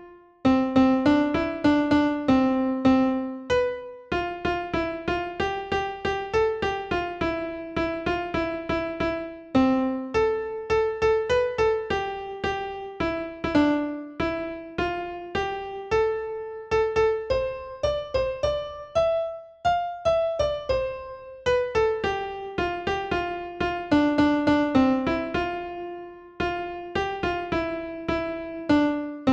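Keyboard music, piano-like: a melody of quickly repeated struck notes, several a second, each one fading after it is played, with brief gaps between phrases.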